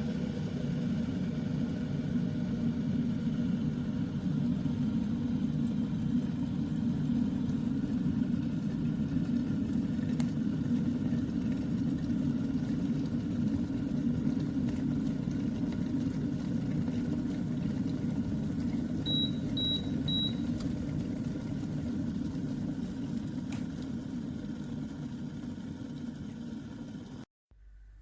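Glass electric kettle heating water to the boil, a steady low rumbling, with its control giving three short high beeps about two-thirds of the way in. The rumble then slowly eases and cuts off suddenly near the end.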